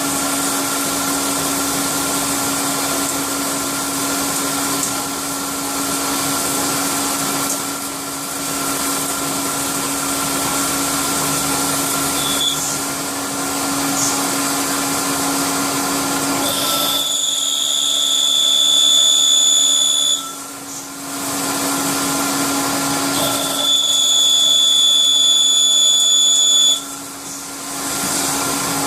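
CNC milling machine running with a steady mechanical hum. In the second half a high-pitched whine comes in twice, for about three seconds each time, with a short gap between.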